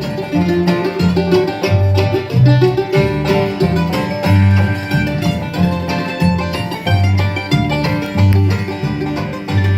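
Live bluegrass band playing an instrumental passage: banjo picking to the fore over guitar and a bass line stepping between notes at an even pace.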